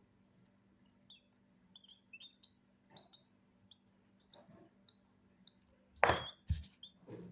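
Cockatiel chicks giving short, high squeaky peeps at irregular intervals, the begging calls of chicks being hand-fed. About six seconds in there is a louder rustle followed by a low thump.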